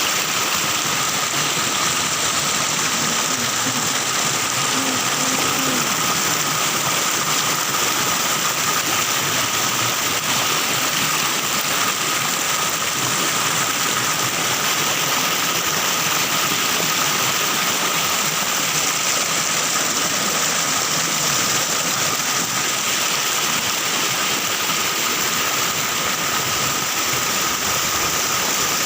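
Rushing river water, a steady unbroken roar of flow with a thin steady high-pitched tone running alongside.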